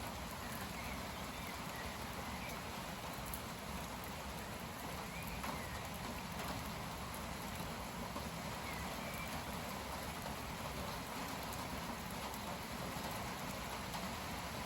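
Steady heavy rain falling in wind, a continuous even hiss: the heavy rain that arrives with a convective cold front.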